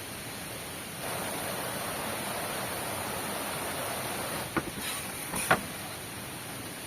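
Steady heavy rain, with two sharp knocks a little under a second apart just past the middle.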